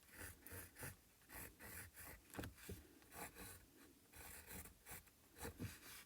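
Faint, irregular scratching strokes of a drawing tool on canvas as plant shapes are sketched in.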